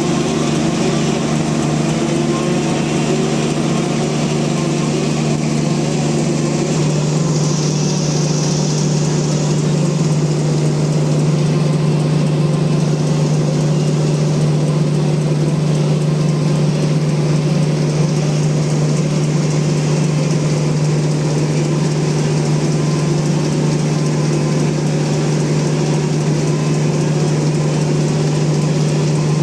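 Sawmill bandsaw running steadily under power, a continuous machine drone. Its tone shifts about seven seconds in, with a short high hiss.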